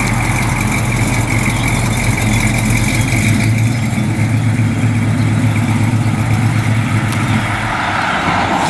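1966 Chevrolet pickup truck's engine running steadily with a low, even engine note.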